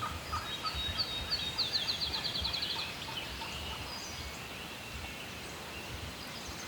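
Wild turkey cackling in the distance, a quick run of excited yelps. A songbird sings a run of high, quickening notes over the first three seconds.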